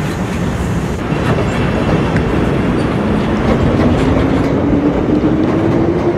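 CTA rapid-transit train pulling out of a station: steady rail and wheel noise, with a motor whine that rises slowly in pitch as the train accelerates.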